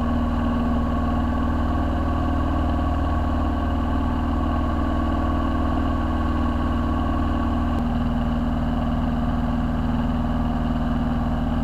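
Piper PA-22 Tri-Pacer's piston engine and propeller droning steadily in the climb, heard inside the cabin, with a slight shift in pitch about eight seconds in.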